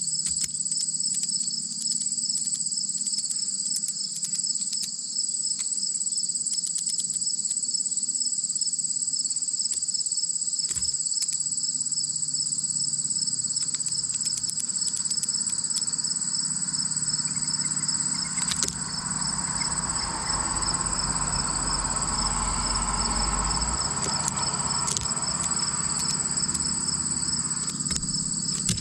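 Crickets chirping in a continuous high, fast-pulsing trill, several insects at slightly different pitches. A low, wider rush of noise swells in the second half and fades near the end.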